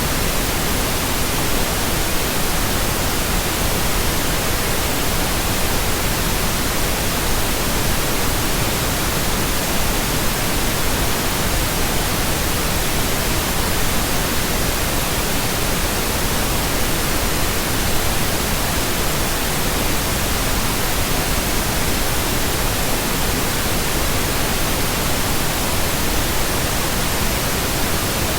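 Pink noise: a steady, unbroken hiss spread evenly across the whole range, with no change at any point.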